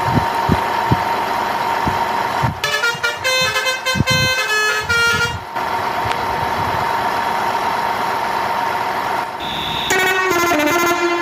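Electronic toy-vehicle sound effects: a short horn-like tune of stepping notes plays twice, over a steady high whine, with scattered knocks in the first half.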